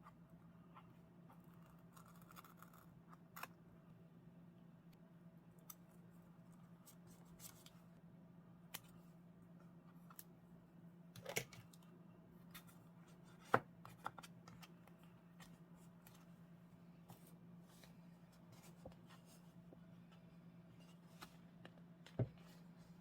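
Scissors snipping paper in a few sparse, sharp cuts, over a faint steady low hum.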